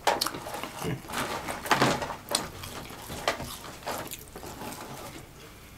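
Close-up eating sounds of people chewing french fries: irregular short mouth clicks and smacks, with nobody speaking clearly.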